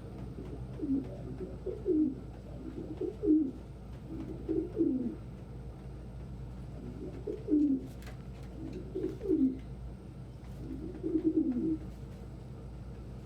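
Domestic pigeon cooing: seven low coos, each sliding down in pitch, four in a run, a short pause, then three more.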